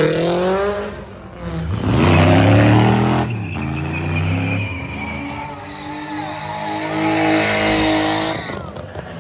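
Car engine revving hard as it accelerates, climbing in pitch twice in the first three seconds, then held at steady high revs for several seconds.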